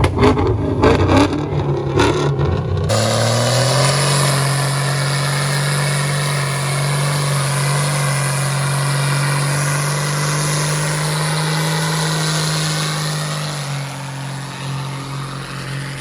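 Diesel truck engine revving, choppy at first, then rising to a steady high note held for about ten seconds before easing off and fading near the end.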